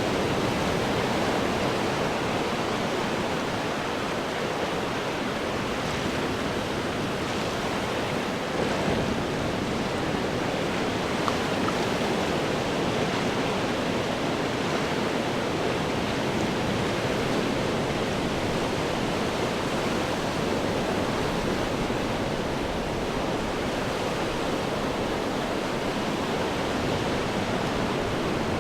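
Ocean waves breaking on rocks: a continuous wash of surf that swells and eases gently, with no single crash standing out.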